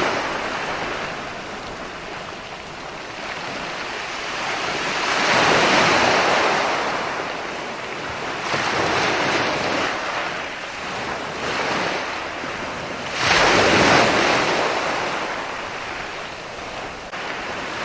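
Ocean surf: waves breaking and washing in, swelling and falling back every few seconds. It is loudest about five seconds in and again about thirteen seconds in.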